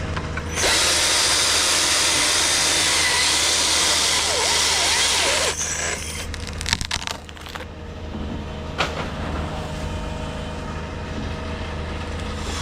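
Chainsaw cutting through wood for about five seconds, then a quick run of cracks and knocks, over a steady low engine hum.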